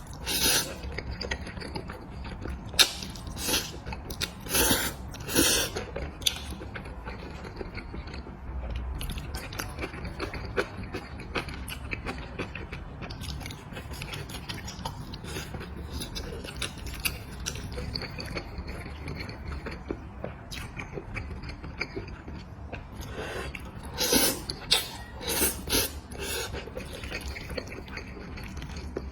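A person biting and chewing food close to the microphone. Sharp crunchy bites come in a cluster in the first few seconds and again near the end, with quieter chewing in between over a low steady hum.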